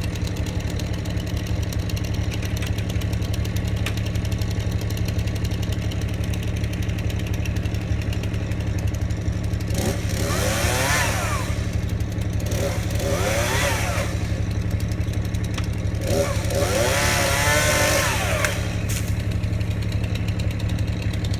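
Small gasoline engine, most likely a chainsaw, running steadily at idle and revved up three times, its pitch rising and falling with each rev.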